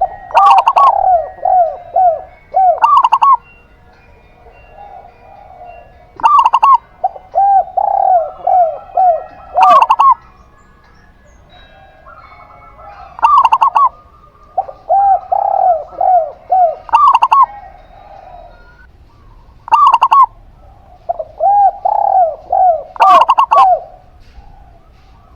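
Zebra dove (perkutut) singing four loud phrases, each a quick run of short clipped cooing notes, spaced about six to seven seconds apart. Fainter, softer dove cooing fills the gaps between phrases.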